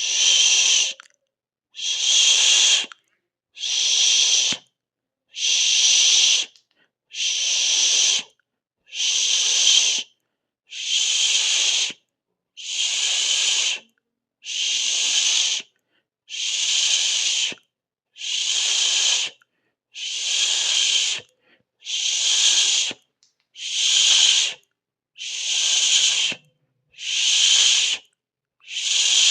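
A mouth-made 'sss' hiss (siseo), repeated at an even pace: about a second of hissing, then about a second of silence, roughly every two seconds.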